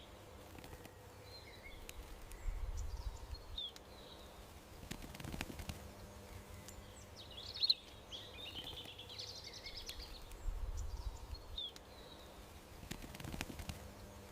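Small songbirds calling in a garden: short high chirps every few seconds and a longer burst of twittering and warbling about two-thirds of the way through, over a faint steady background hum.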